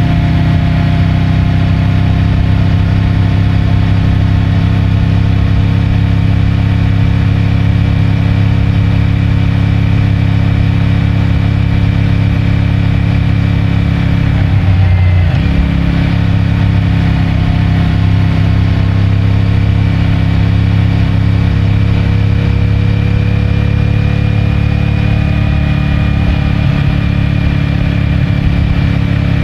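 CFMOTO 450MT's parallel-twin engine with its stock exhaust running at a steady cruising speed under way. The note breaks briefly about halfway through, as at a gear change, then settles back to a steady pitch. It is heard from a mic in the rider's pocket.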